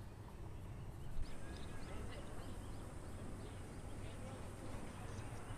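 A bird calling in a quick run of short rising chirps, about four a second, starting a little over a second in and fading after a couple of seconds, over a steady low rumble.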